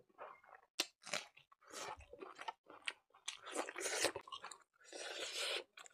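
Close-miked chewing of a mouthful of buffalo innards curry with rice: irregular crunching bites in short bursts.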